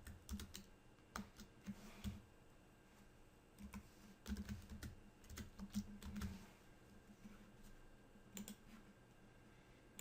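Faint typing on a computer keyboard in short runs of keystrokes, with pauses between the runs.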